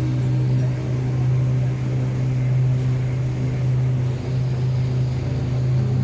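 Boat engine running steadily, a low, even drone with water and wind noise over it.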